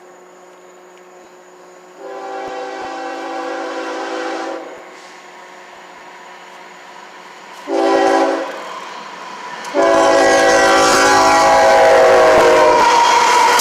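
CSX freight locomotive's multi-tone air horn sounding blasts for a grade crossing: a long blast, a short one, then a long blast that holds as the loud rumble of the approaching train comes in. The horn's pitch drops near the end as the locomotive passes.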